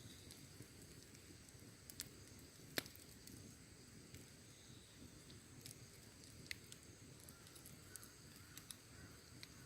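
Wood fire burning with soft crackling and scattered sharp pops, the loudest pop about three seconds in, over a low steady rumble.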